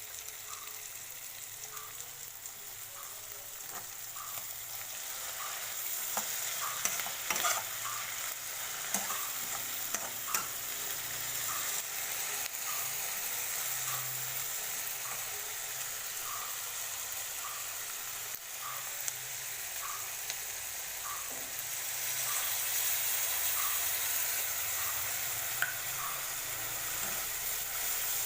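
Hot oil sizzling in a wok as food is stir-fried, with a spatula scraping and knocking against the pan, most often about six to ten seconds in. The sizzle gets louder a few seconds in and again after about twenty-two seconds.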